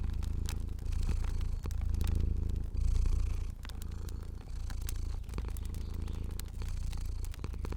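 Cat purring in a steady low rumble that swells and eases with each breath, about once a second, softer after about three and a half seconds. Light fire crackle pops sound over it.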